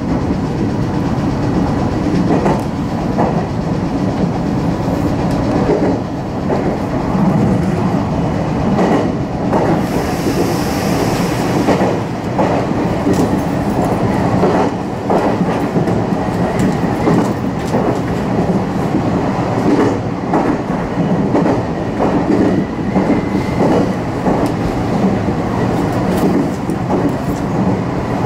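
Meitetsu electric local train running, heard from inside the front cab: a steady running noise with wheels clicking over rail joints, and a brief hiss about ten seconds in.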